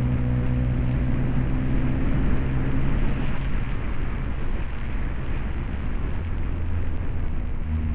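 Subaru Impreza's flat-four engine with an aftermarket axle-back exhaust running steadily on the road, under a broad rush of tyre and wind noise from driving on snow. The steady engine note fades about two to three seconds in and comes back at a lower pitch near the end.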